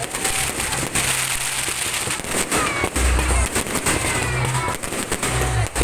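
Fireworks going off in quick succession, with many sharp bangs and crackles, over music with a deep bass line.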